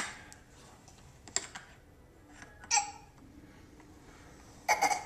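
A few sharp clicks and knocks of hard plastic, mixed with short bursts of a toddler's babbling, the loudest about a second before the end.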